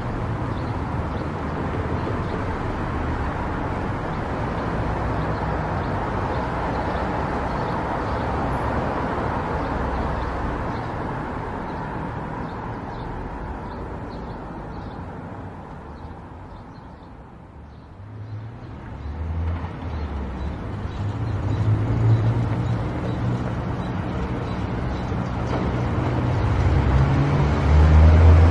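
A car driving on a road: steady road noise that fades to a low ebb about two-thirds of the way through. Then a low engine hum builds again in steps as it gathers speed.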